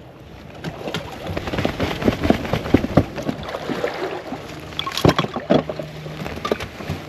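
A run of irregular knocks and clatter, loudest about five seconds in, with a low steady hum joining near the end.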